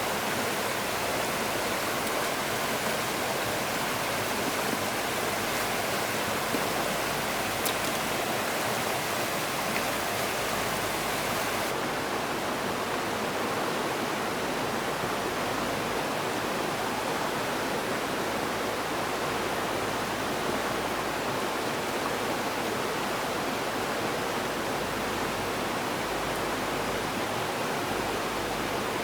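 Steady rushing of water, an even hiss with no breaks; the upper hiss eases slightly about twelve seconds in.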